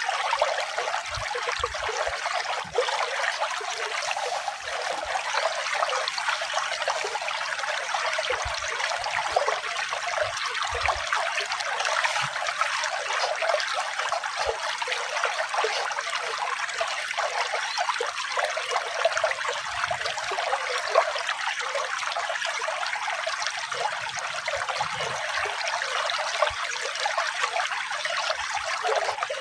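Running water trickling steadily, an even splashing hiss with no music.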